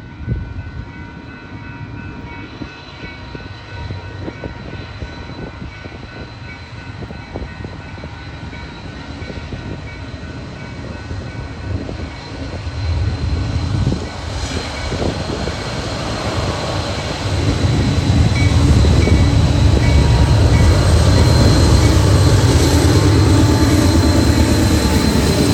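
Lead diesel locomotives of a Union Pacific coal train, GE AC44CW and AC4400CW units followed by an EMD SD70ACE, approaching and growing steadily louder. Their deep engine drone swells sharply over the last ten seconds as the units draw close.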